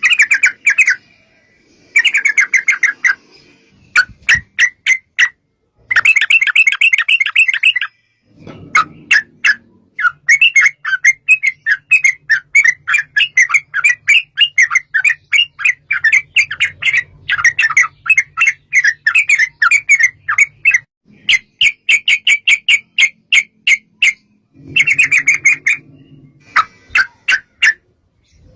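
Yellow-vented bulbul singing in loud bursts of fast chattering notes. Some are short phrases and one long run lasts over ten seconds: the long rapid trill that bird keepers call "ropel panjang".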